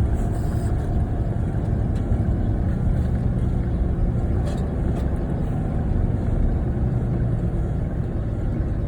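A car driving at a steady speed: an even, low rumble of tyres and engine that holds steady throughout.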